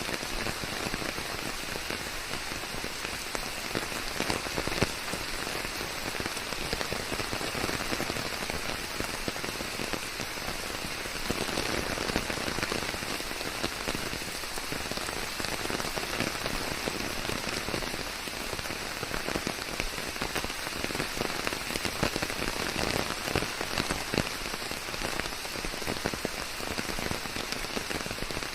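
Steady, heavy rain falling on leaves, a dense patter of many drops.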